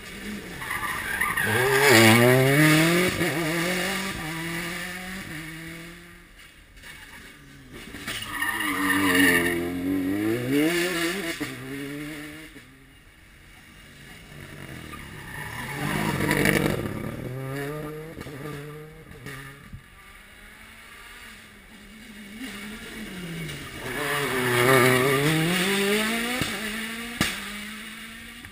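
Rally cars going past one after another on a closed stage, four passes about seven seconds apart. Each engine is driven hard up through the gears, its pitch climbing and dropping back at each shift, loudest as the car goes by and then fading. A short sharp crack comes near the end.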